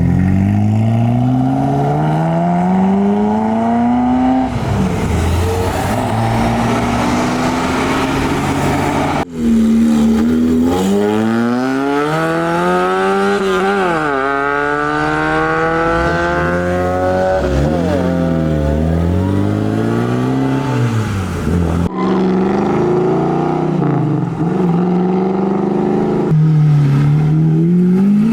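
High-performance car engines accelerating away hard. The pitch climbs and drops sharply again and again as they rev and shift gear. The sound cuts abruptly twice to a different car.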